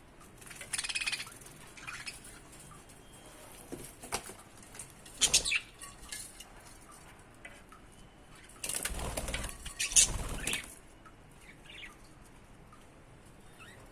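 A budgie flapping its wings in bursts: briefly about a second in, again around five seconds, and for about two seconds near the nine-second mark. A few faint short chirps come between the bursts.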